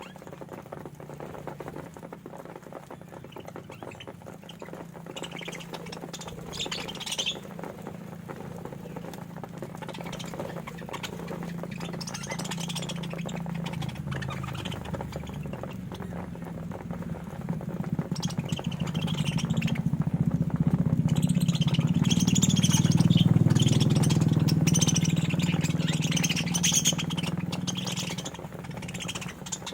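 A flock of budgerigars chirping and squawking in short, scattered calls, busiest near the end. A low steady hum runs underneath and grows louder through the second half before easing off near the end.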